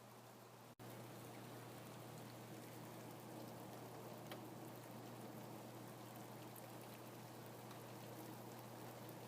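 Steady, faint rain with scattered drops ticking, plus a low steady hum underneath. The sound cuts out for an instant just under a second in, then carries on unchanged.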